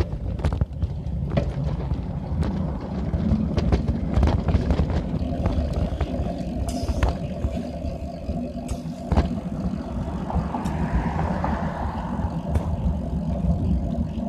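Bicycle in motion on a road: a steady low rumble of tyres and wind on the microphone, with frequent small clicks and rattles from the bike.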